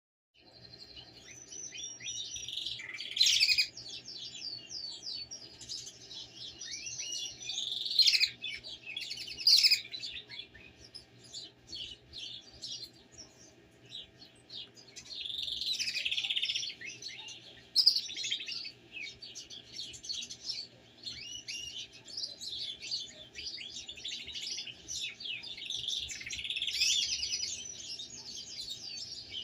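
Domestic canaries chirping and warbling without pause in quick high trills, louder in a few short bursts, over a faint steady hum.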